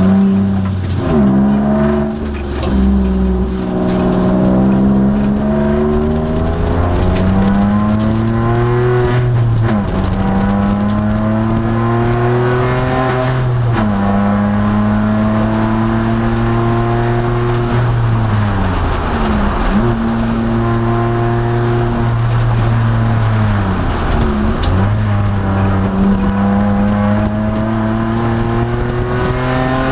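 2002 Nissan Maxima's 3.5-litre V6 racing on a circuit: its pitch climbs steadily under throttle, then falls sharply several times as the car brakes and changes down for corners.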